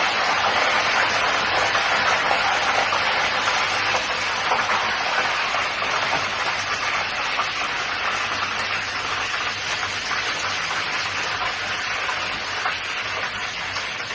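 Fish frying in hot oil: a dense, steady crackling sizzle that grows slightly quieter toward the end.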